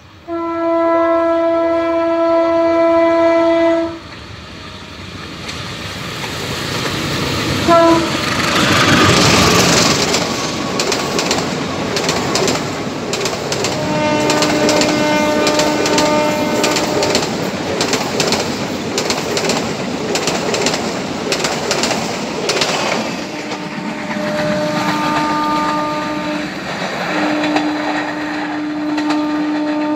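CC 201 diesel-electric locomotive sounding its multi-tone horn in a long blast, then a short toot, as a passenger train approaches. The locomotive passes loudest about ten seconds in, then the carriage wheels clatter rapidly over the rail joints, with more horn blasts midway and near the end as the train draws away.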